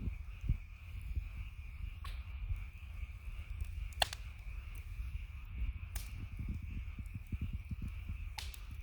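Wood campfire crackling, with a handful of sharp pops (about five, a second or two apart) over a steady low rumble and a faint steady high tone.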